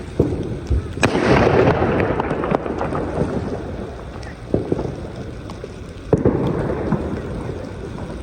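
Consumer fireworks going off: a series of sharp bangs, the loudest about a second in and others about halfway and near three-quarters of the way through. Crackle and rumble fill the gaps between them.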